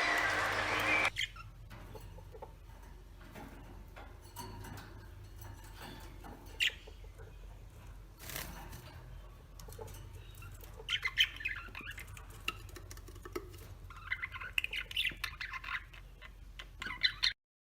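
Small birds chirping and squawking in short bursts, loudest in two clusters in the second half, over a steady low hum with a few sharp clicks. The sound cuts off abruptly just before the end.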